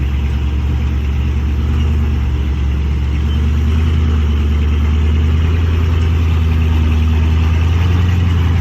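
Off-road rock crawler's engine running with a steady low drone, getting a little louder about two seconds in and again around four seconds.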